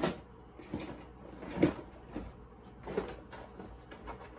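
Cardboard box being handled and opened: a string of short scrapes and knocks, the loudest about one and a half seconds in.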